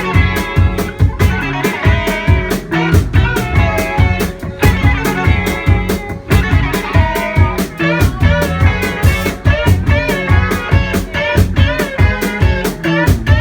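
A live rock band playing an instrumental passage: guitar lines over a steady drum beat.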